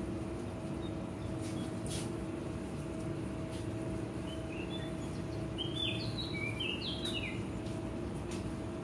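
Small birds chirping in a quick run of short falling notes in the middle of the stretch, over a steady low hum.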